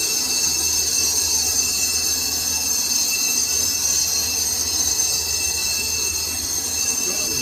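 Metal lathe turning a steel sugarcane-crusher roller: a steady high-pitched screech from the cutting tool on the metal over the machine's low running hum.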